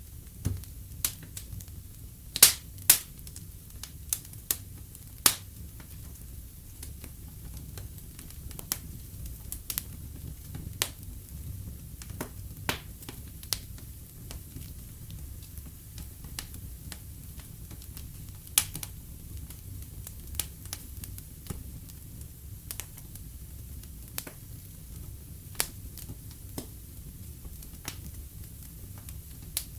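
Wood fire burning in a fireplace, crackling with irregular sharp pops and snaps over a low, steady rumble of the flames. The loudest pops come in a cluster in the first few seconds, with another strong one past the middle.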